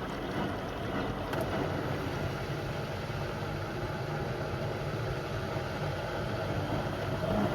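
Beko WM74135 washing machine running steadily: its motor turning the drum during a wash cycle.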